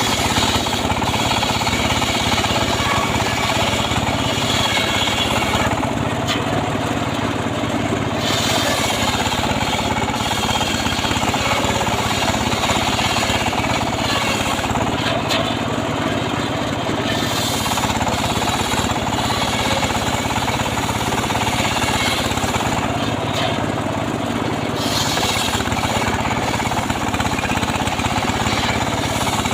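Engine-driven homemade 'srekel' sawmill running under load as its blade cuts a log of sengon wood, a steady fast pounding machine sound with the higher, cutting part changing every few seconds.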